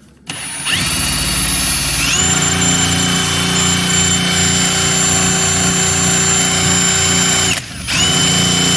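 Electric drill running, spinning the chainsaw's engine over for a spark-plug spark test. Its whine steps up in pitch about two seconds in and holds steady, with a pulsing low end. It cuts out briefly near the end and starts again.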